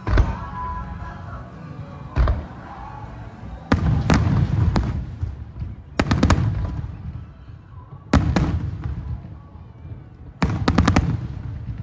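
Aerial fireworks shells bursting: a series of sharp booms, each trailing off in a low rolling echo, with quick clusters of several reports close together, the last cluster near the end.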